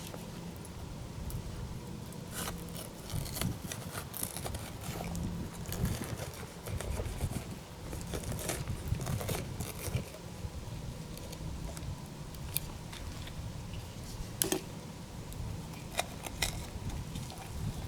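Food being prepared by hand: irregular crunches, scrapes and clicks of utensils and ingredients, several sharp ones standing out, over a low steady background.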